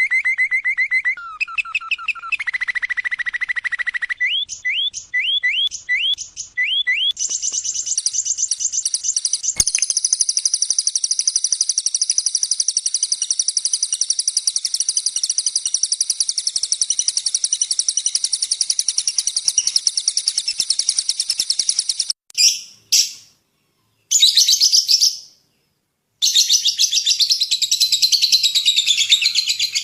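Songbird singing: quick runs of repeated chirping notes, then a long, unbroken, very high trill from about seven seconds in. Near the end the trill breaks off abruptly several times.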